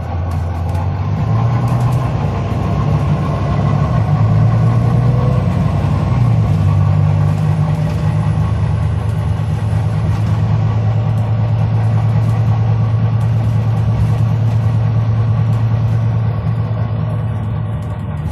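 Diesel bus engine running, its pitch rising over the first few seconds, dropping about six seconds in, then holding steady.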